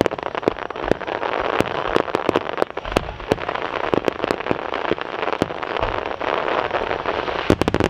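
Aerial fireworks: a dense, continuous crackling from crackle-star shells, pierced by many sharp pops, with a couple of deeper booms about three and six seconds in.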